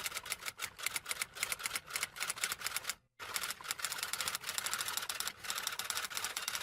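Rapid typing on keys, many quick clicks a second, stopping abruptly about three seconds in and then starting again in a denser, steadier run.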